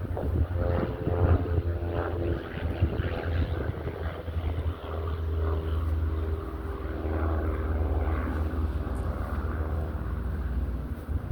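An engine running steadily with a low rumble, its pitch shifting slowly over several seconds.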